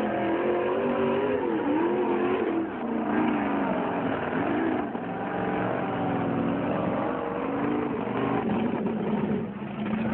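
Monster truck engine running loud and revving, its pitch mostly held steady but dropping and climbing back twice.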